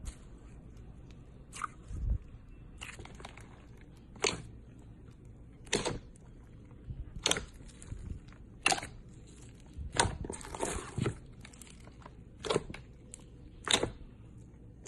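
Crunchy slime being pressed and squeezed by hand, giving a short crackling crunch about every second and a half.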